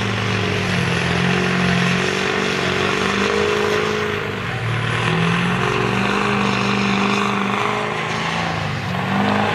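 Diesel engine of a Chevy mega truck working under load in deep mud, its pitch rising and falling as the throttle is worked, easing off briefly about four and a half seconds in and again near the end.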